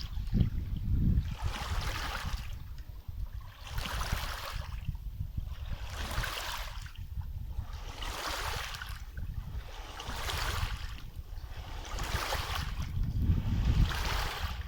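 Small waves lapping at a river's edge, the wash swelling and fading about every two seconds, over a steady low rumble of wind on the microphone.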